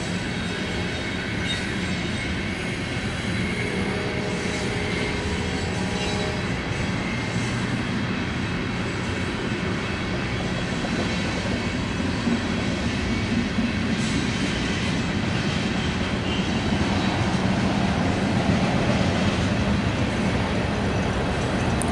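Loaded coal train's hopper cars rolling past: a steady rumble of steel wheels on rail, with faint wheel squeal in the first several seconds and scattered clicks from the rail joints.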